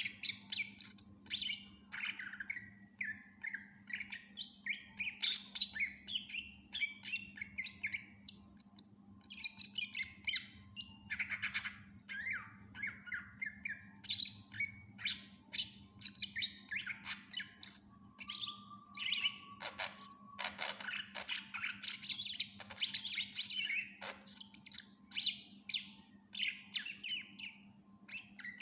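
Cucak ijo (green leafbird) singing a continuous, rapidly changing song of chirps, trills and short whistles, strung with phrases mimicked from other birds (isian). A steady low hum runs underneath.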